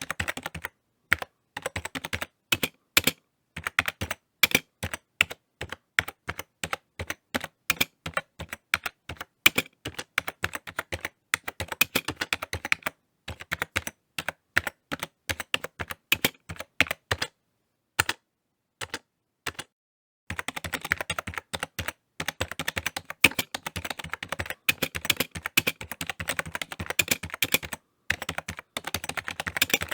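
Typing on a computer keyboard: rapid runs of key clicks broken by short pauses. The middle slows to scattered single keystrokes with a few gaps of silence, then fast, steady typing picks up again about two-thirds of the way in.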